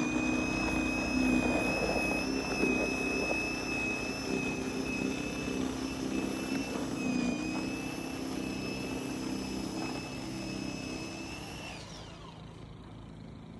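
Battery-powered electric snow blower running with a steady high-pitched motor whine over a lower hum. The whine stops near the end.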